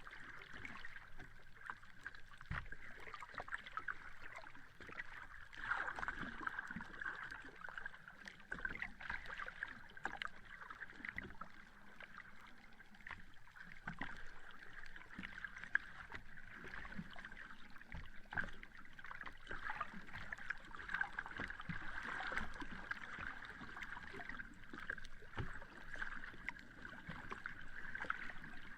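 Sea water lapping and washing on a beach: a steady wash with many small splashes and crackles through it.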